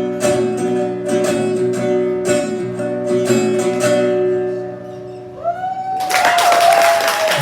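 Acoustic guitar strumming the closing chords of a song, then ringing out and fading. About six seconds in, audience applause breaks out with a few whoops.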